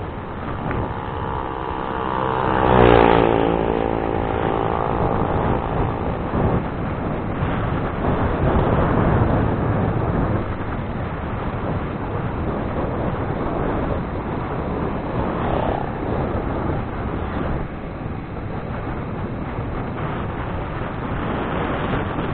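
Wind rushing over the microphone while riding. A motor vehicle's engine passes close by, loudest about three seconds in, then fades.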